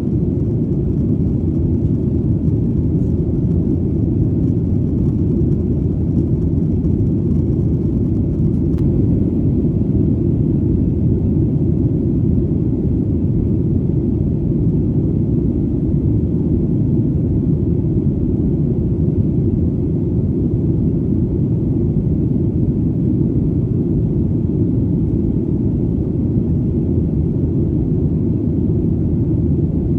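Airplane in flight, a deep, even engine and airflow rumble that stays steady throughout, with little high-pitched sound in it.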